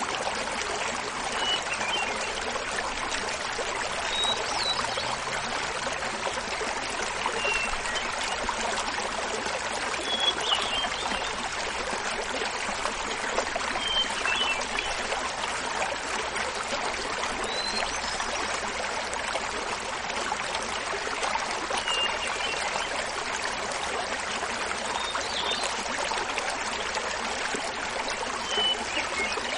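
Small mountain waterfall splashing and babbling steadily, with a hermit thrush singing short, faint flute-like phrases every three to four seconds over it.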